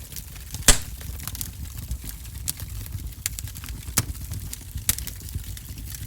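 Wood fire crackling in a wood-burning stove: sharp, irregular pops over a low steady rumble, the loudest pop just under a second in.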